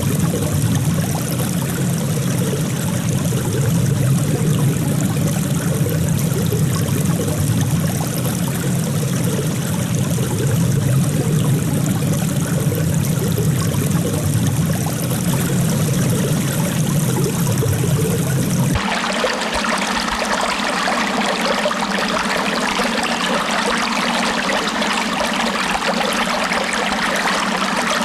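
Running water flowing steadily. About two-thirds of the way through the sound changes abruptly: the low rumble drops away and the water turns brighter and more splashy.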